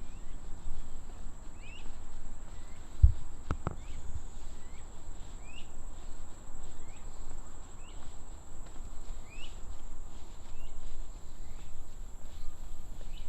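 Steady high-pitched insect chorus, like crickets, with a bird's short rising chirps repeated about once a second over it. A couple of sharp thumps come about three seconds in, the first of them the loudest sound.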